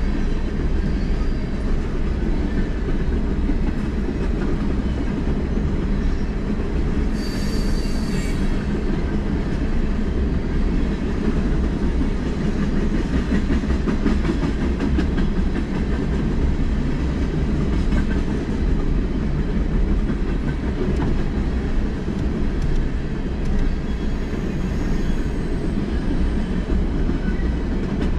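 Norfolk Southern freight train rolling past on the rails: a steady, loud rumble of wheels and cars, with a brief high wheel squeal about seven seconds in.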